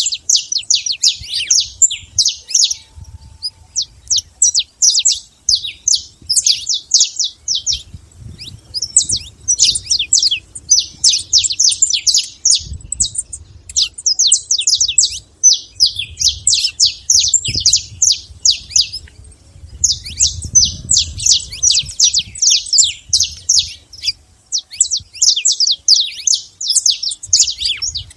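Saffron finch singing: runs of quick, high chirping notes, broken by short pauses every few seconds.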